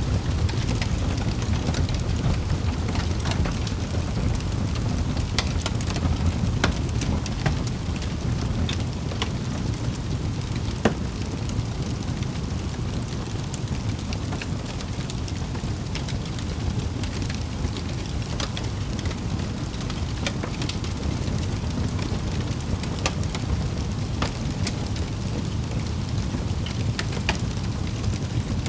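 Wood fire burning in a fireplace: a steady low rumble with scattered crackles and pops, one sharper pop about eleven seconds in.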